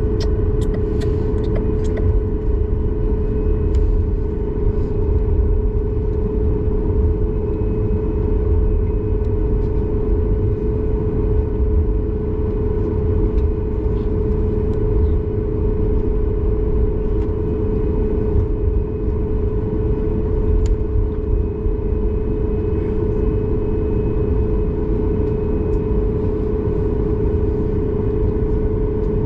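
Cabin noise inside a Boeing 737 MAX 8: its CFM LEAP-1B engines running steadily, with a constant whine over a deep rumble. A few light rattles come in the first couple of seconds.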